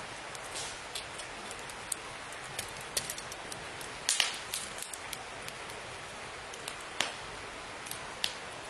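Campfire crackling: a steady hiss of burning wood with a dozen or so sharp, irregular pops, the loudest just after four seconds in.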